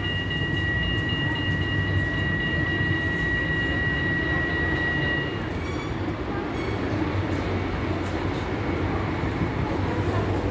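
Tram running on its rails with a steady rumble and a high, steady squeal or whine that stops about five seconds in, followed by a few brief faint tones.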